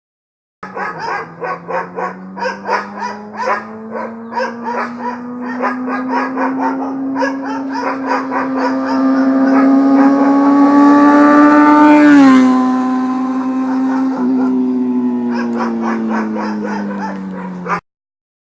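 Kawasaki ZX6R inline-four through a Two Brothers aftermarket exhaust, revved and held high. The note pulses at first, then climbs steadily in pitch, drops sharply about two-thirds of the way in, and eases down before cutting off abruptly.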